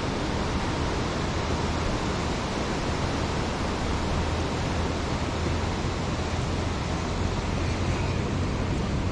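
Steady wash of beach surf, with wind rumbling on the microphone.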